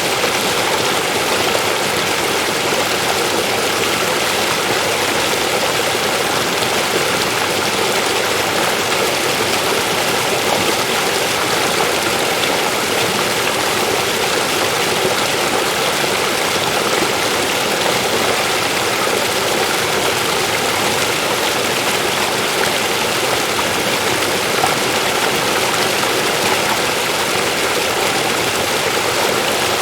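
River water flowing over rocks, a steady, even rushing.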